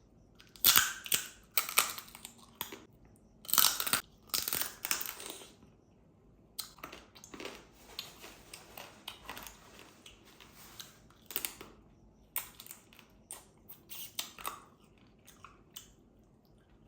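Close-miked eating: loud crunching bites in the first few seconds, then steadier, softer chewing with small wet mouth sounds.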